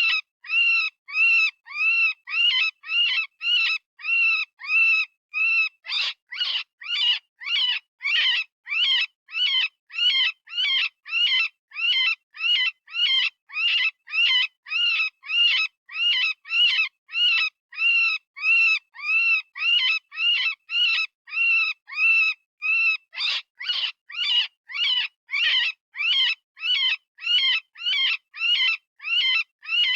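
Software-generated rabbit distress call: short, high-pitched screams repeating about twice a second in a steady run. The calls change character slightly around six seconds in and again near the end. It is the pain-and-fear scream that hunters play to call in predators.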